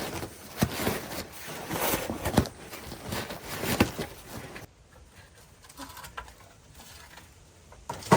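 Firewood being handled and stacked: rustling with a run of short wooden knocks. It drops to a quiet background about halfway through, with one sharp knock near the end.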